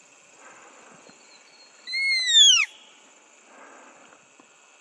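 A bird's loud whistled call, once, about two seconds in: a single note of under a second that rises slightly, then sweeps steeply down in pitch.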